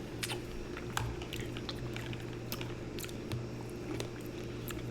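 Close-miked mouth sounds of chewing Nature's cereal, pomegranate seeds and berries in coconut water: irregular wet clicks and squishes, with a low steady hum underneath.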